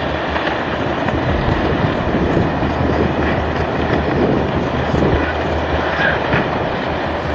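Landslide making a steady, dense rumbling noise, with no separate crashes standing out.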